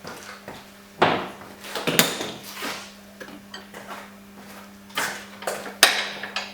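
Metal hand tools and steel suspension parts clinking and knocking: a handful of sharp metallic knocks, each with a short ring, spaced about a second apart, while work goes on at the front anti-roll bar bushing brackets. A faint steady hum runs underneath.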